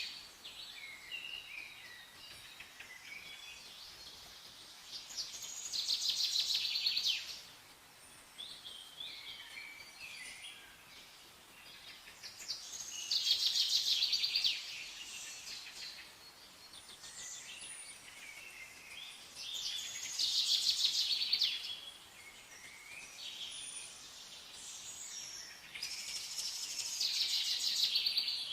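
Songbirds chirping: one bird's fast trilled song, about two seconds long, comes back about every seven seconds, four times, with softer scattered chirps in between.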